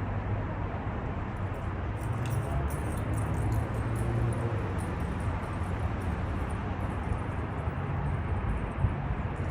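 Steady low rumble of a vehicle's engine running, with faint light clicking or jingling for a few seconds in the first half.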